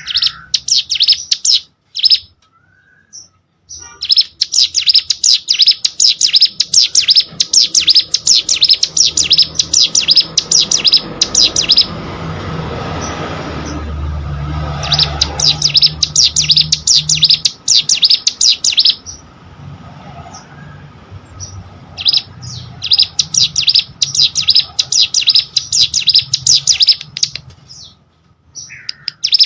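Prinia (ciblek sawah) singing in long runs of rapid, sharp, high chirps, broken by short pauses. In the middle there is a stretch of rushing noise with no song.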